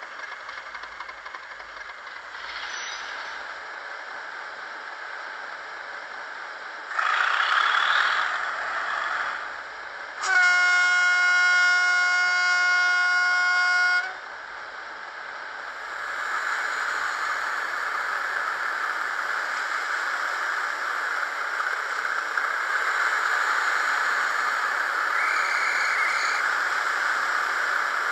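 Sound chip in an N gauge Class 37 diesel model locomotive, playing through its small speaker: the diesel engine sound runs throughout. A louder burst comes about seven seconds in, then a single steady horn blast of almost four seconds about ten seconds in. The engine sound grows louder from about sixteen seconds.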